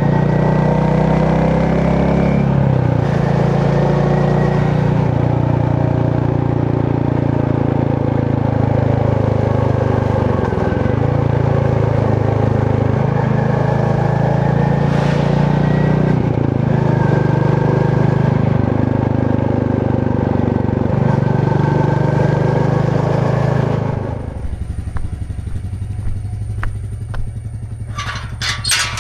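Royal Enfield Meteor 350's single-cylinder engine and exhaust running while riding, its pitch dipping and rising with throttle and gear changes. About 24 s in it drops to a quieter, steady note, with a few sharp clicks near the end.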